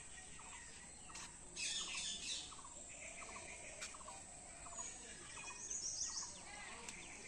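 Birds chirping and calling: a faint, regular run of short chirps about twice a second, with louder, higher calls about two seconds in and again near six seconds.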